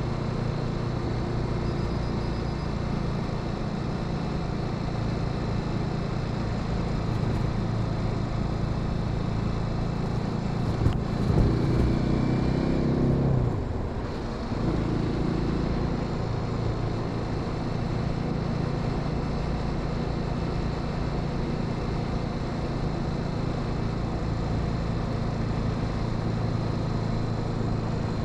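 Motorcycle engine running at a steady cruise with wind and road noise. About halfway through, the revs climb and the engine gets louder, then drops off for a moment near 14 s, as with a gear change, before settling back to a steady cruise.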